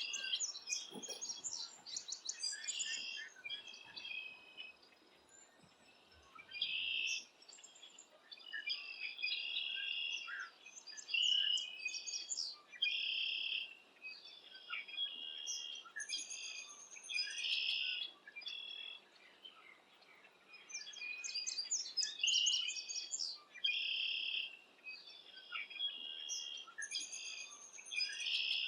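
Wild birds calling and singing: many overlapping chirps, quick trills and whistled phrases, coming in bursts with short pauses between.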